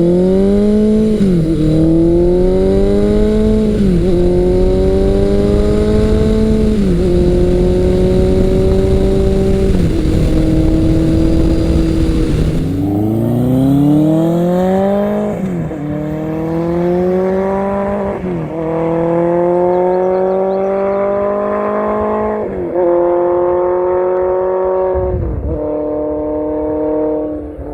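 Two big-bore motorcycle engines, one after the other, accelerating hard through the gears: the engine pitch climbs and drops back at each upshift, four shifts in the first run, which cuts off suddenly about twelve seconds in, then four more shifts in the second run.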